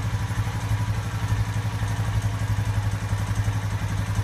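Honda Rancher 420 ATV's single-cylinder four-stroke engine idling steadily, warming up before an oil change.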